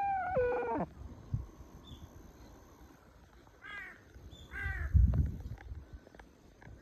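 Bird calls: a loud call falling in pitch ends just under a second in, and two short calls follow near the middle. A loud low thump comes about five seconds in.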